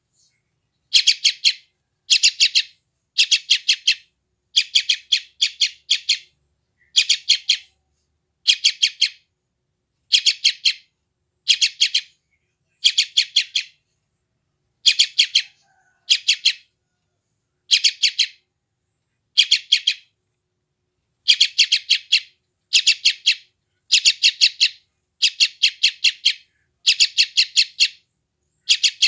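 Young yellow-vented bulbul (trucukan) giving hungry begging calls: short bursts of rapid, harsh notes, about one burst a second with brief gaps between.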